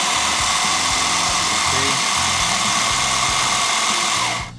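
A 1/16 RC drift car's electric motor and 4WD drivetrain running at full throttle in high-speed mode with the wheels spinning freely. It is a loud, steady high whine with a hiss, and it cuts off suddenly near the end.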